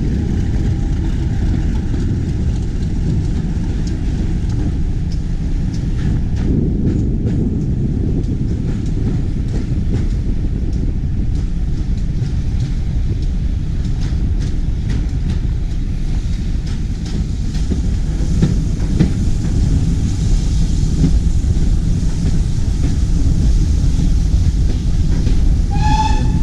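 Train carriage running along the track, heard from an open window: a steady low rumble of the wheels with a few clicks over rail joints. A brief whistle sounds near the end.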